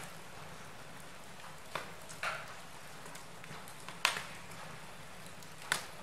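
Wood fire burning in a fireplace, crackling with four sharp pops over a steady low hiss, the loudest about four seconds in.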